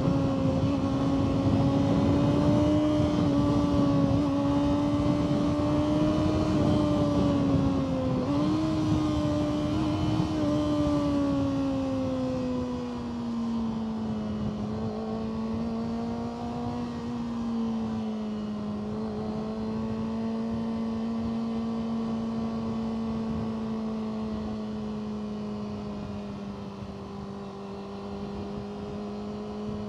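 Motorcycle engine running at a steady cruise with wind rush, heard from the rider's seat; the engine note lifts briefly about eight seconds in, then eases down to a lower steady pitch and stays there.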